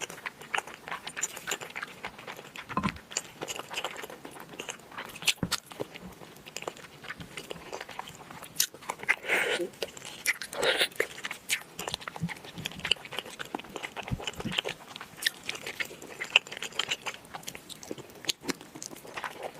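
A person biting and chewing food close to the microphone, with many irregular short clicks and crunches.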